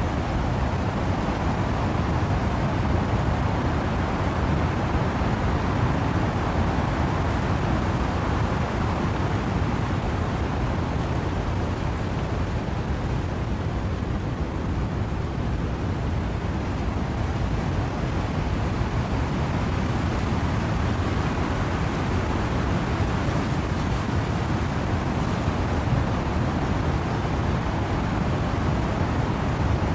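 Wind and rain in trees: a steady, even rush of noise, heaviest in the low end, with no single drops or gusts standing out.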